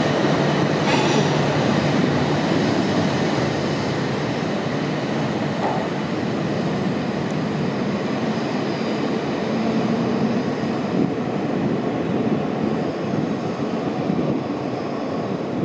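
E6 series Shinkansen train pulling slowly out along the platform: a steady rumble of motors and wheels on the rails that eases off gradually.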